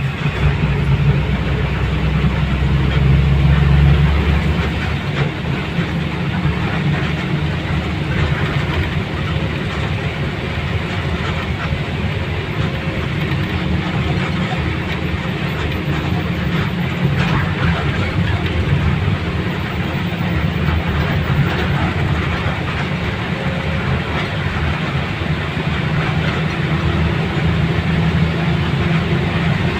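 Steady rumble and running noise of a moving vehicle, heard from on board: a low drone with an even wash of noise over it. It is a little louder in the first few seconds.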